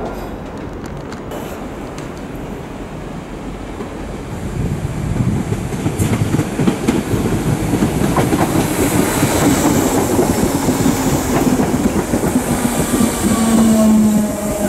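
Merseyrail electric multiple unit approaching and running into the platform: wheels rumbling and clicking over the track, growing louder from about four seconds in, with a whine near the end as it draws alongside.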